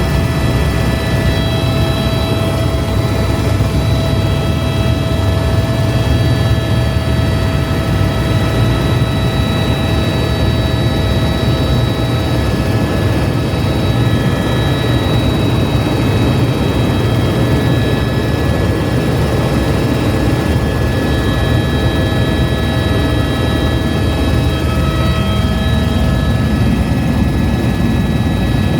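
Helicopter in flight: a steady low rotor and engine drone with a constant high turbine whine over it.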